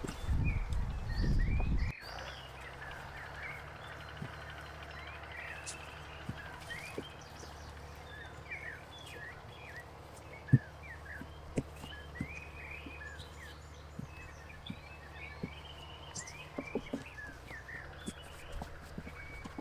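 Many small birds chirping continuously with short rising calls. A loud low rumble in the first two seconds cuts off abruptly. Scattered knocks follow, the sharpest about halfway through.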